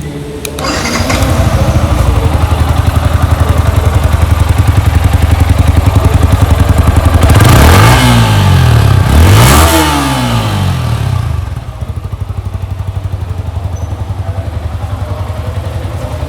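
Yamaha R15 V4-series 155 cc single-cylinder motorcycle engine idling through the stock exhaust. It is blipped twice in quick succession about halfway through, the pitch rising and falling each time, then drops back to a steady idle.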